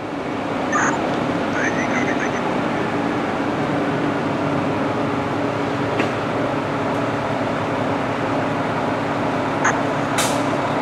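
Fire engine's diesel engine running steadily, with a few short high chirps and a brief hiss shortly before the end.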